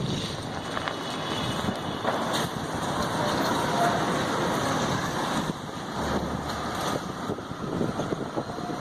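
Strong wind during a dust storm, a steady rushing noise buffeting the microphone.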